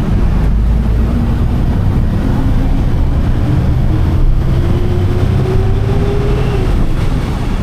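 Steady low rumble of a vehicle in motion, with a faint whine that rises slowly in pitch over several seconds and then falls away near the end.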